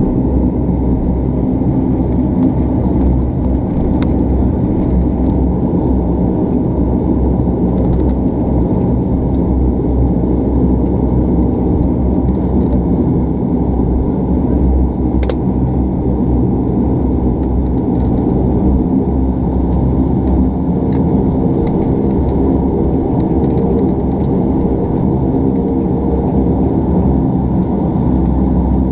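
Cabin drone of a Bombardier Dash 8 Q400's two turboprop engines and propellers running steadily while the airliner taxis after landing, a loud even hum made of several steady low tones. A few faint clicks sound over it.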